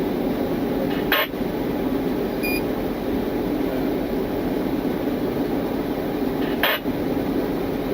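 Steady mechanical hum with two short bursts of hiss, one about a second in and one near the end, and a brief high beep in between.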